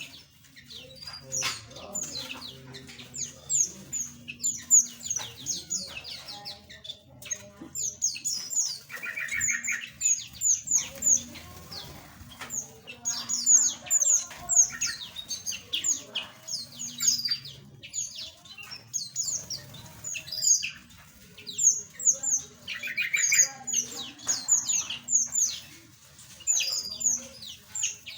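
Small aviary birds chirping continuously in a flock: many short, high, falling chirps overlapping in quick succession. A lower, buzzier call cuts in briefly about ten seconds in and again near twenty-three seconds.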